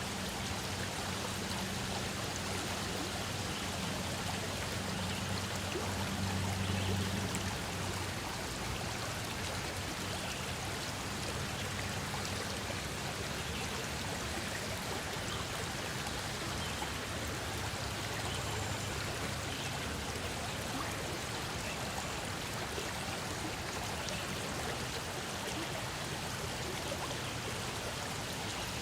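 Stream water flowing steadily, a continuous even rush with faint scattered droplet ticks. A low hum sits underneath for the first several seconds, then fades.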